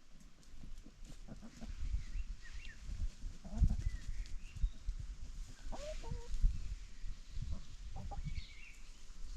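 Scattered short bird chirps and whistled glides, with a lower call about six seconds in, over frequent low thumps and rumbling.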